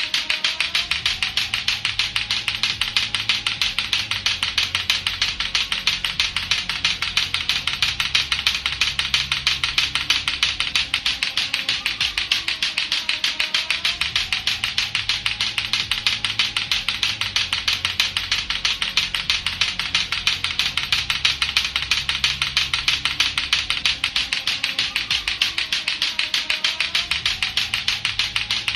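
Latto-latto clacker balls knocking together rapidly and without a break, a steady stream of sharp clacks. A low backing track with a slowly wavering tone runs underneath.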